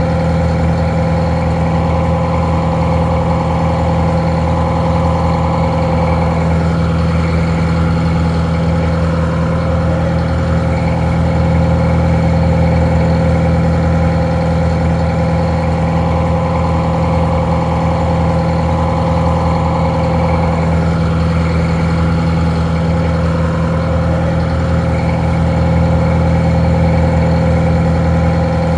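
Detroit Diesel 4-71, a four-cylinder two-stroke diesel, idling steadily at an even, unchanging speed, sounding a little muffled.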